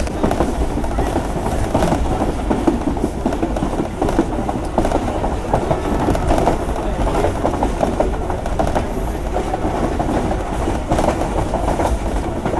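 Pakistan Railways passenger train running along the track, heard from on board: a steady rumble with the wheels clattering over the rails.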